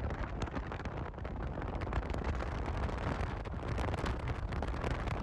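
Wind buffeting the microphone: a steady low rumble with irregular gusty thumps.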